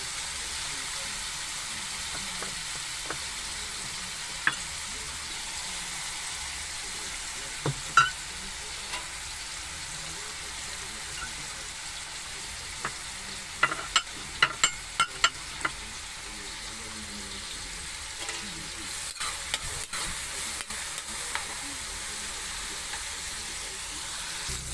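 Garlic, onion and tomato sautéing in hot oil in a metal wok, with a steady sizzle. Scattered sharp clicks and pops break through it, including a quick cluster about two-thirds of the way through.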